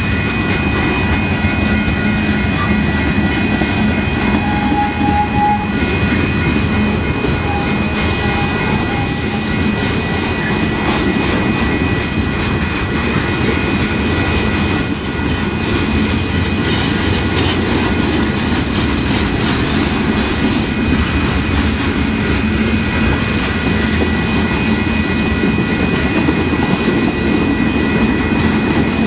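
Freight cars of a long Union Pacific manifest train rolling past at close range: a steady, continuous rolling noise of steel wheels on the rails.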